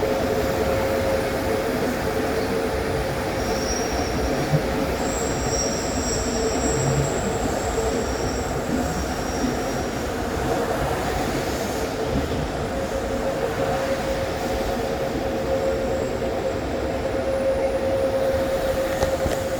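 Passenger train running through a curve, its steel wheels squealing on the rails in a steady ringing tone over the running rumble. Thinner high-pitched squeals come and go from about four to ten seconds in.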